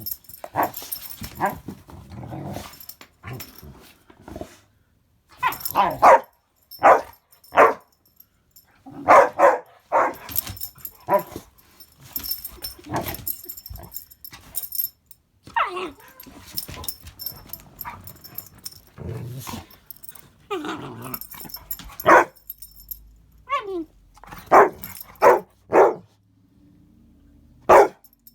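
A puppy and a larger dog play-fighting, with repeated short barks and growls coming in bursts.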